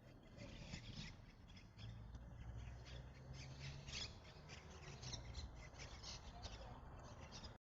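Faint, rapid squawking and chirping of birds, many short calls in quick succession, over a low steady rumble.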